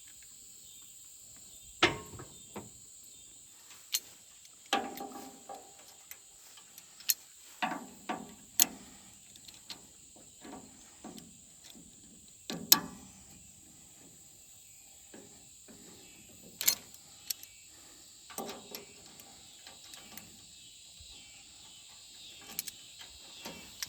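Scattered sharp knocks and clicks, about a dozen spread irregularly, over a steady high-pitched insect drone.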